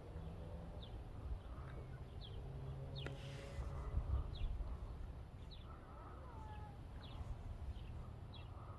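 Small birds chirping outdoors: short high notes, one every half second to a second, over a steady low background rumble.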